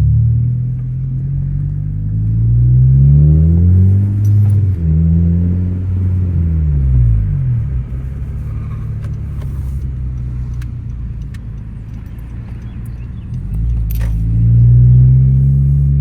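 2013 Honda Civic Si's 2.4-litre four-cylinder engine heard through an Invidia N1 catback exhaust while driving. The revs climb and drop at a gear change, climb again and fall away, hold a steady lower drone for several seconds, then rise again near the end.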